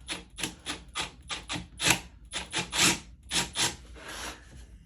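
Rubbing strokes of abrasive on a wooden cutout, about three a second, as when hand-sanding a rough edge, easing into a softer steady rub near the end.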